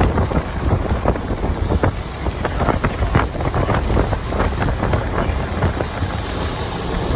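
Strong wind buffeting the microphone: a steady low rumble broken by irregular gusty pops.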